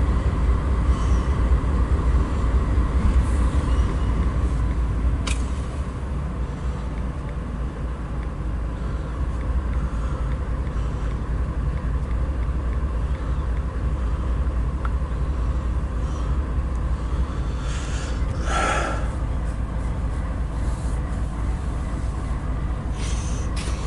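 Steady low engine rumble from an idling diesel, with a short hiss about two-thirds of the way through.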